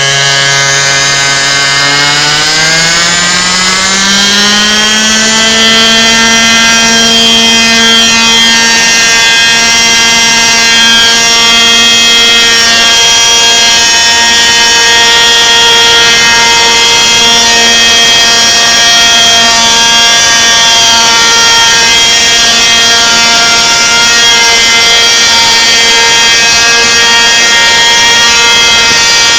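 Trex 600 RC helicopter's Zenoah 27cc two-stroke petrol engine with a tuned exhaust, very loud, rising in pitch over the first few seconds as it spools up, then running at a steady high pitch.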